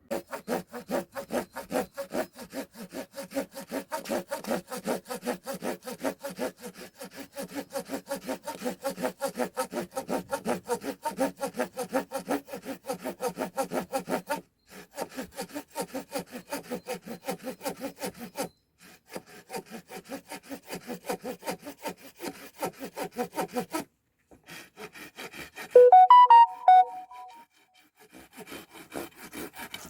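Hand saw cutting through wood in quick, even back-and-forth strokes, about three a second, stopping briefly a few times. Near the end a short, louder high-pitched squeak stands out.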